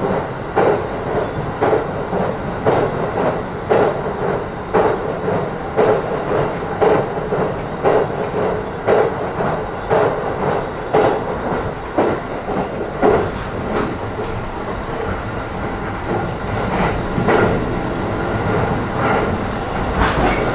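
Interior of an E531-series electric train running between stations: a steady rumble with the wheels clacking over rail joints about once a second. The clacking grows less distinct in the last few seconds.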